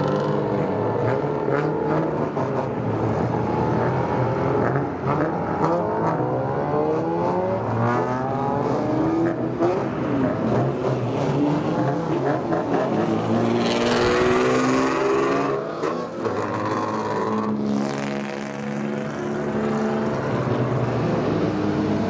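Several modified old cars' engines revving and accelerating together, their pitches overlapping and rising and falling as throttles are blipped. A short rush of hiss comes about two thirds of the way through.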